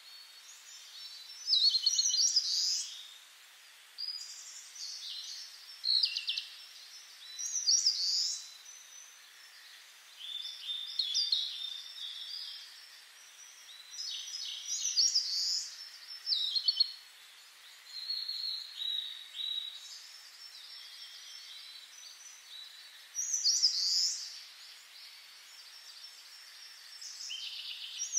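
Songbirds singing in the trees: short bursts of high chirping phrases about every two to four seconds over a faint steady hiss.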